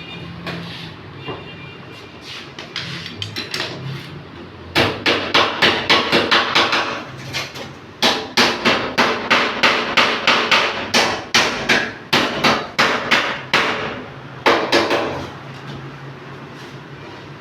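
Hammer beating dents out of a Suzuki Alto's sheet-metal body panel. A few light taps come first, then long runs of sharp, ringing blows at about five a second, broken by short pauses.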